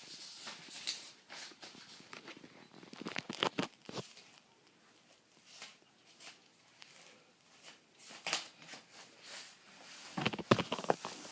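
Packaging being handled as a sound bar is unpacked: plastic wrap and cardboard rustling and crinkling, with scattered knocks and a quick cluster of clicks and taps near the end.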